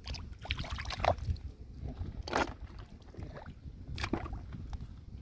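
Water splashing and sloshing in a few separate bursts, over a low rumble.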